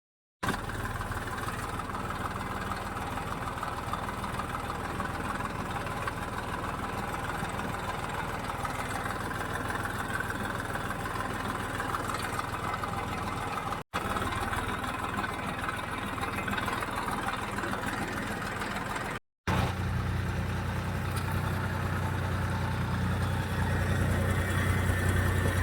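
Tractor engine running steadily. The sound drops out briefly twice; after the second gap the low engine note is stronger and grows a little louder toward the end.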